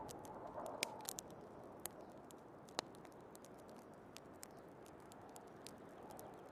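Wood fire crackling, with scattered sharp pops at irregular intervals, the loudest about a second in and near three seconds in. Underneath runs a steady hiss of snowstorm wind.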